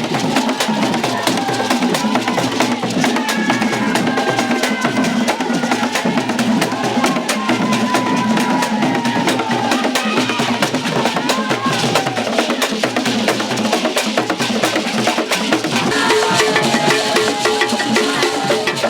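Music carried by drums, with a sharp clacking beat struck over and over. A few faint pitched lines glide over it, and more tones join near the end.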